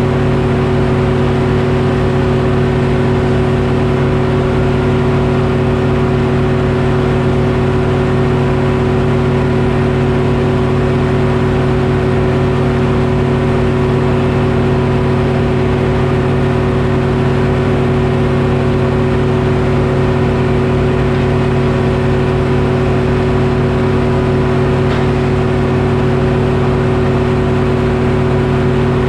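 Detroit Diesel engine powering a Frick sawmill, running steadily at constant speed with an unchanging tone.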